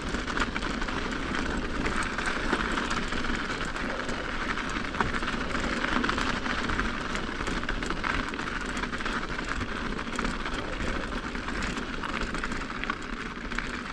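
Mountain bike rolling down an icy trail: steady rolling noise with many small clicks and rattles.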